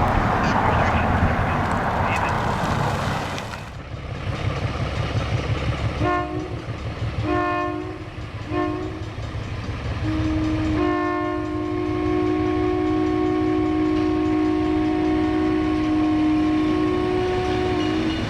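Diesel locomotive running with a loud rumble that drops away after about three and a half seconds, then its multi-note air horn sounds three short blasts followed by one long blast held for about seven seconds.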